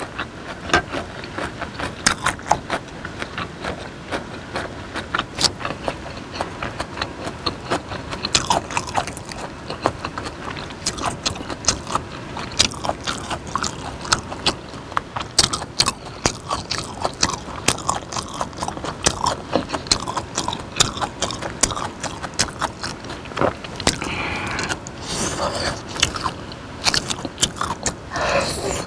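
Close-miked chewing of raw beef in chili dipping sauce: many short, irregular wet mouth clicks and smacks. Near the end another sauce-coated slice is taken off a wooden spoon into the mouth.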